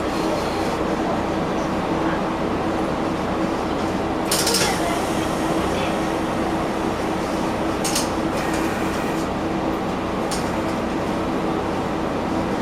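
Diesel railcar engine idling, heard from inside the passenger cabin as a steady drone with a constant hum, while the car waits at a station to cross an oncoming train on single track. A few brief clinks and knocks, the loudest about four and a half seconds in.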